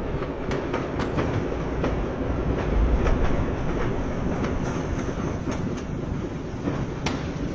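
Motorised LEGO train running on plastic track: a steady rumble with irregular clicks from the wheels and track.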